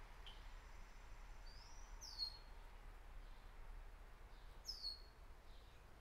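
Two bird calls, about three seconds apart, each a short high note that slides up and then drops, over faint outdoor background hiss.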